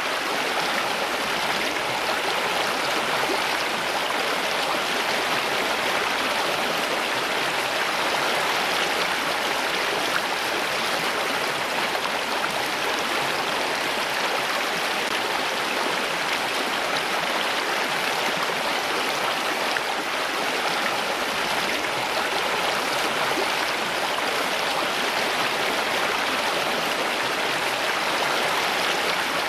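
Flowing water rushing steadily, an even and unbroken sound.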